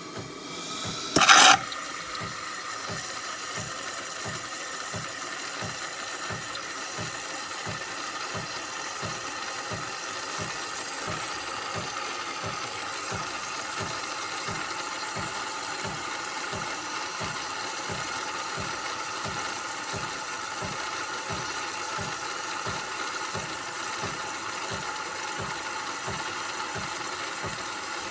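De'Longhi Dinamica Plus bean-to-cup espresso machine running through a cycle: a steady mechanical hum with a low pulse about twice a second, typical of its pump pushing water through. A brief loud hiss or burst comes about a second in.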